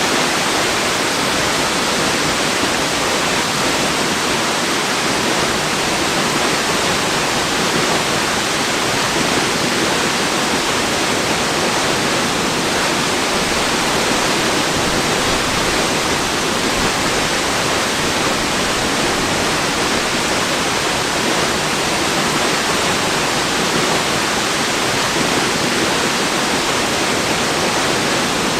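Waterfall's steady, unbroken rush of falling water, even and unchanging throughout.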